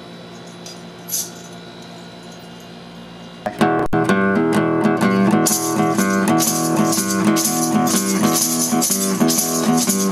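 After a few seconds of low hum, a guitar starts strumming chords sharply about three and a half seconds in, a blues song's intro. About two seconds later a rattle joins in, shaking in a steady rhythm with the strumming.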